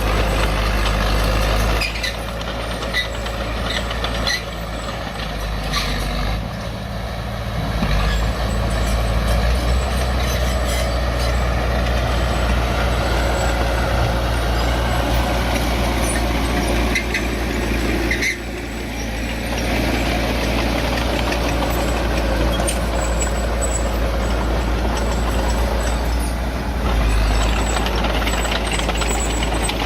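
Heavy diesel earthmoving machinery running steadily, with scattered clicks and knocks over the engine noise and a brief dip in loudness about two-thirds of the way through.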